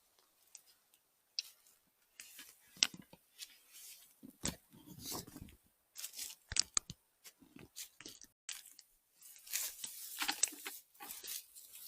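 Irregular crunching and rustling of forest-floor litter, with scattered sharp crackles, as leaves, twigs and undergrowth are disturbed underfoot and by hand.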